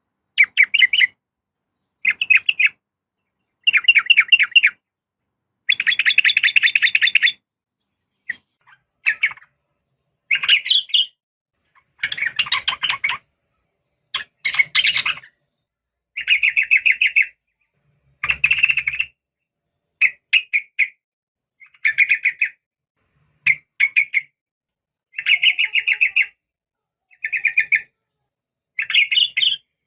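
Yellow-vented bulbul calling in short bursts of rapid chattering notes, one burst every second or two with brief silences between; the call is billed as a female calling to males.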